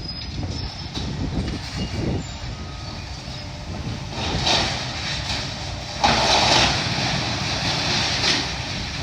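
Demolition machinery running with a steady low rumble, while debris crashes and scrapes in noisy bursts: once about four and a half seconds in, louder for about a second from six seconds in, and briefly near the end.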